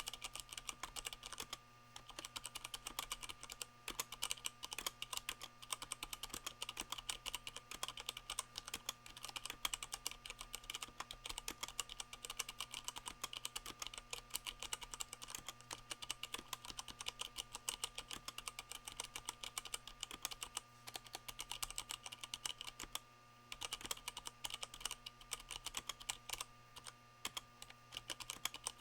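Continuous fast typing on a mechanical keyboard with Cherry MX Brown switches fitted with O-rings, which damp the keys bottoming out; a rapid run of clicks with brief pauses near the start and about two-thirds of the way through.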